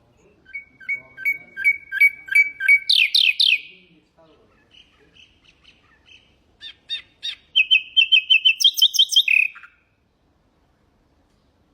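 Nightingale singing two song phrases: each a run of repeated two-note or single-note calls that speeds up, then rises into a few loud, higher, rapid notes.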